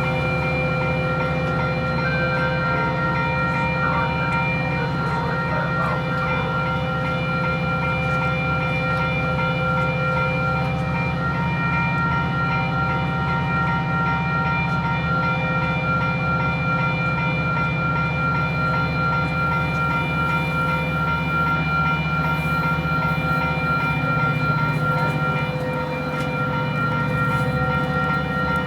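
Metra commuter train's diesel locomotive running steadily: a low engine drone with several steady whining tones above it.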